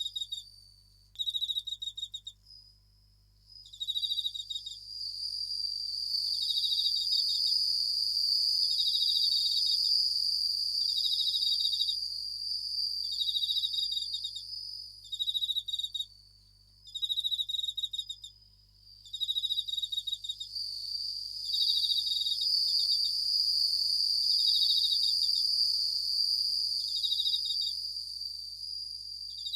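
Japanese bell crickets (suzumushi) singing: short, rapidly pulsed ringing chirps repeating about every two seconds over a steady high trill, with brief lulls a few times.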